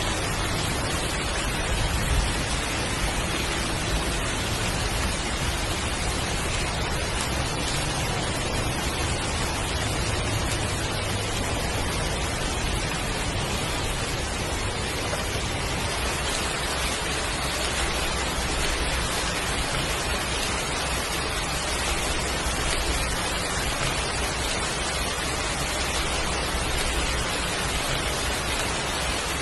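Heavy rain falling in a steady, dense rush, even in level throughout.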